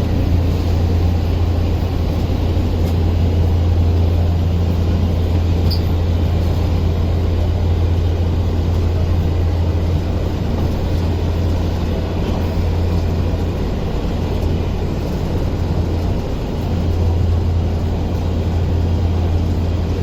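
Steady low hum and rumble of an Indian Railways express train, with no change in level.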